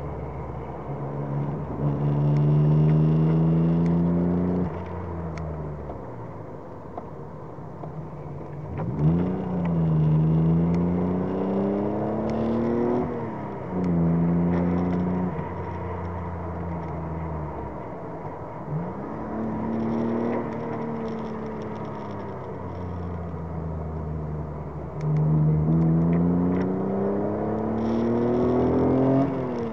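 Alpine A310's V6 engine heard from inside the cabin on track, pulling hard through the gears: its pitch climbs several times and drops sharply at each upshift, between stretches of steadier, lower running as the car lifts and brakes.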